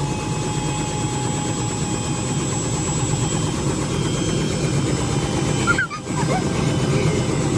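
Helicopter's turbine engine and rotor running steadily: a dense low rumble with a thin steady whine above it, dropping out briefly about six seconds in.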